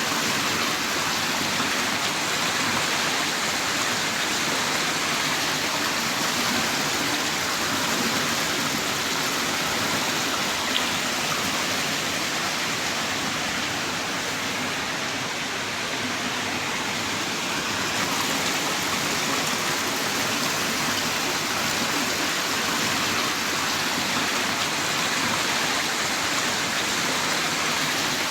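Heavy rain downpour falling in a steady, even hiss, with one sharp tick about eleven seconds in.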